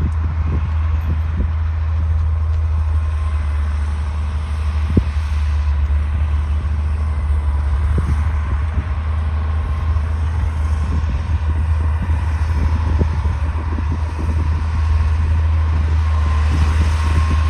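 D60 bulldozer's diesel engine running steadily under work, with a faint high whine and a few sharp knocks.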